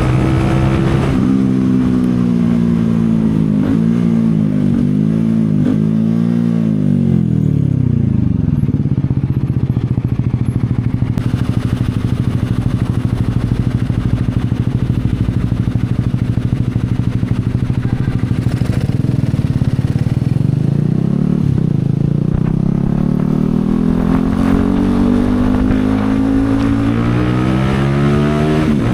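CFMoto 250SR Lite's single-cylinder engine, heard from the rider's seat. The revs fall in several steps as the bike slows, the engine idles steadily for about twelve seconds, then the revs climb again as it pulls away and shifts up near the end.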